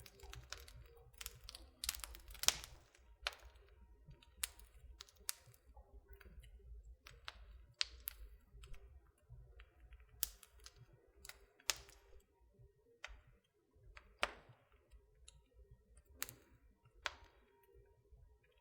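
Wood fire burning in a fireplace, crackling with irregular sharp pops over a low rumble. The loudest pops come about two and a half seconds in.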